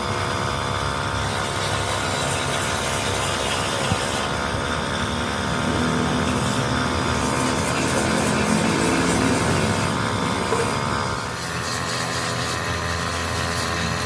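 A motor running steadily, its tone shifting about eleven seconds in.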